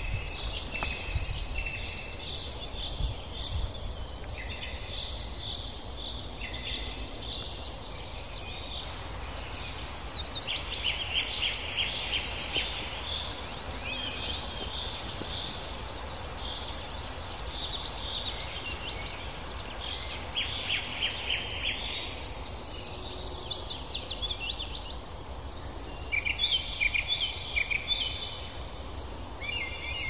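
Songbirds singing outdoors: several overlapping birds with chirps, rapid trills and repeated phrases, over a steady low rumble of background noise.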